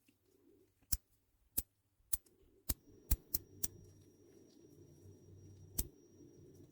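A run of about eight sharp, irregular clicks and taps: small metal shifter parts and tools being handled during the rebuild of a bicycle gear shifter, over a faint low hum.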